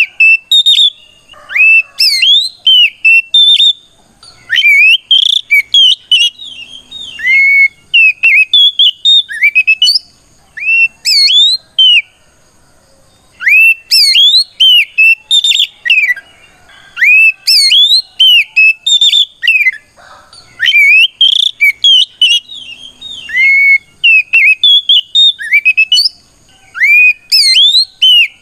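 Oriental magpie-robin (kacer) singing a loud challenge song of clear whistled notes that sweep quickly up and down, in rapid bursts broken by short pauses. This is a male's full 'ngeplong' song, calling out a rival.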